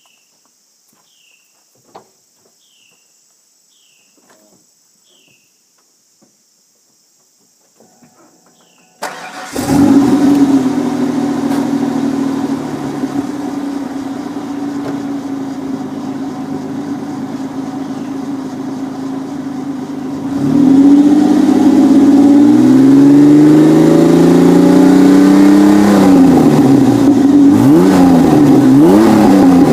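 Faint chirps over near quiet, then about nine seconds in the 1995 Ford Ranger's stock 4.0 OHV V6 cranks briefly and starts, idling through a Thrush welded muffler and 2¼-inch cat-back exhaust. From about twenty seconds in it is revved, the pitch rising and falling in several blips.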